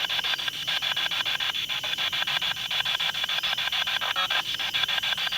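Ghost-hunting spirit box sweeping through radio stations: a steady stream of rapid, evenly spaced bursts of choppy static.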